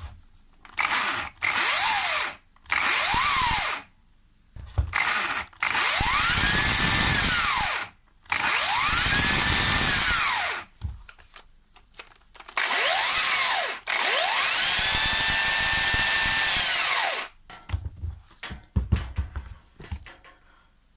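Makita DUC254 18V battery top-handle chainsaw, just converted to 1/4 inch pitch chain, run with no load in a series of trigger pulls: a few short blips, then several longer runs. Each time the motor whine rises as it spins up and falls as it coasts to a stop, with the hiss of the chain running round the bar.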